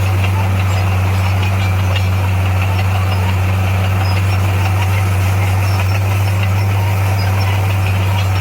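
Diesel engine of an SDLG motor grader running steadily with a deep, even hum.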